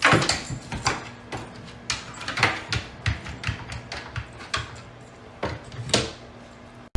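Irregular knocks and bumps in a small room, with a few louder thumps among lighter clicks.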